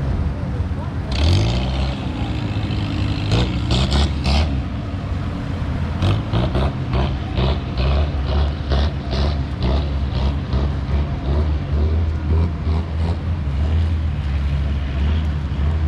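Long-tail boat's engine running loudly with a steady low drone, its pitch rising briefly about a second in. Short sharp knocks come through it over the first half.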